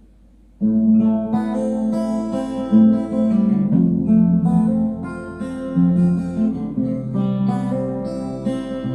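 Acoustic guitar starting about half a second in and strumming chords, with bass notes changing under them, as the instrumental introduction to a song.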